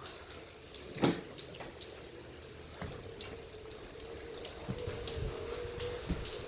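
Onewheel electric skateboard's hub motor whining in a steady tone that wavers slightly as speed changes, over the hiss of its tyre rolling on the garage floor. There is one sharp knock about a second in, and light ticking throughout.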